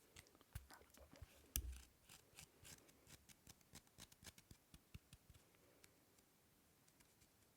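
Soft, irregular clicks and taps from small objects being handled, many in quick succession. The loudest is a knock about a second and a half in, and the clicks thin out to a few faint ones after about five seconds.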